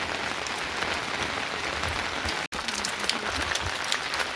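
Steady heavy rain falling, a dense even hiss of drops with separate drop sounds standing out. The sound cuts out for an instant about two and a half seconds in.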